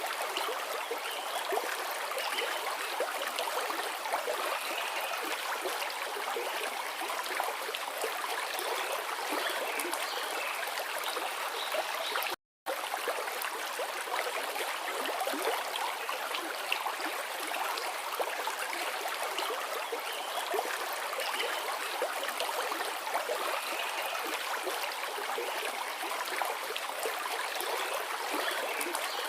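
Forest river flowing and rushing steadily over rocks. The sound cuts out completely for a split second about twelve seconds in.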